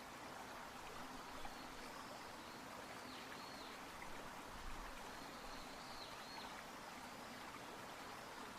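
Small shallow river gurgling steadily and faintly, with a bird giving short chirps in pairs about three and six seconds in.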